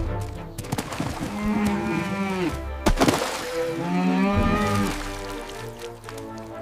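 A cow mooing twice, two long low calls that drop in pitch at their ends, over background music.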